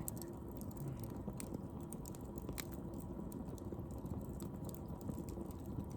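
Wood fire crackling: irregular sharp snaps and pops over a low, steady background noise.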